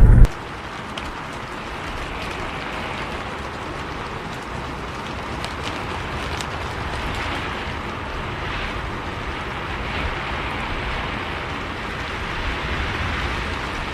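Steady rain, an even hiss with a few sharp drop ticks now and then. A loud low vehicle rumble cuts off suddenly just as it begins.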